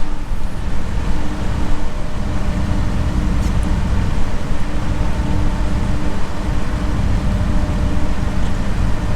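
Turbocharged 2JZ-GTE engine of a modified Lexus SC300 running with a steady low rumble.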